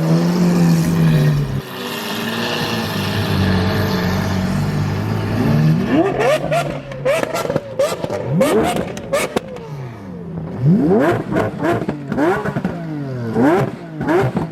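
Sports car engine running, then revved hard again and again from about halfway in, the pitch shooting up and dropping on each blip, with a run of sharp cracks among the first revs.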